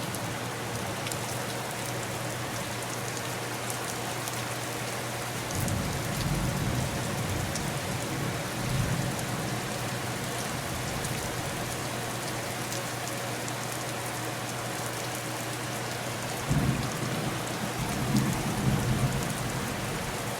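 Steady rain on the house, with two low rolls of thunder: one about five seconds in, rumbling for about four seconds, and another about sixteen seconds in.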